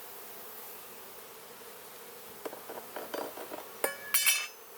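Honeybees humming steadily around an open hive. From about halfway, a run of clicks and scrapes, ending in two sharp ringing clinks near the end, as a frame is pried loose from the hive box.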